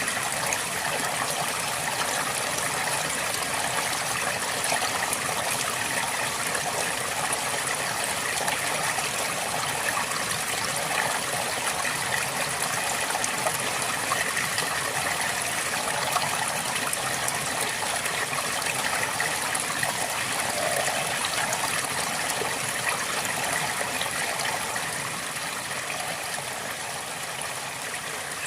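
River water flowing steadily over stones, a constant rushing with small splashes and trickles, easing slightly about 25 seconds in.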